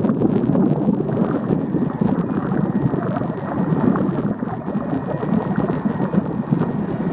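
Wind buffeting the camera microphone in an uneven rumble, over the steady drone of an Airbus A310's turbofan engines on approach.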